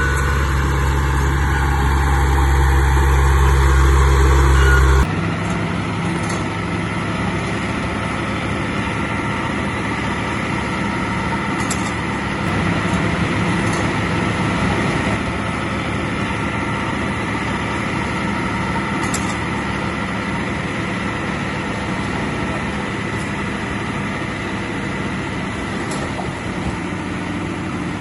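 Heavy diesel earthmoving machinery running steadily. The sound changes abruptly about five seconds in, from a louder, deeper engine note to a steadier, lighter one, with a few faint clicks later.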